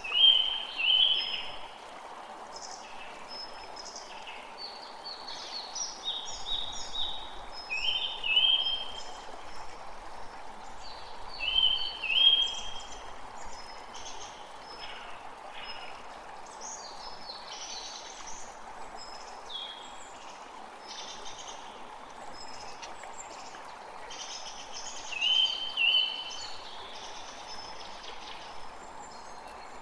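A stream flowing with a steady rush while several birds call and sing over it. The loudest is a short two-note phrase that comes back four times, with many fainter, higher chirps between.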